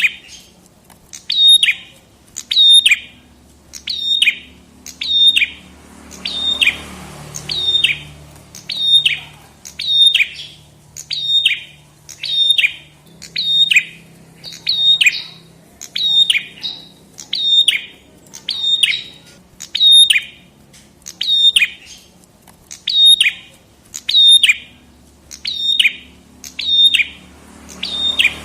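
A prenjak kepala merah songbird calling over and over, about once every 1.3 s; each call is a short, sharp high note that drops quickly in pitch. A faint low hum runs underneath.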